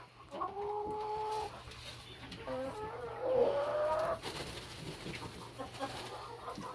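Chickens in a coop calling: one long, level call about half a second in, then a rising, wavering call around three seconds in.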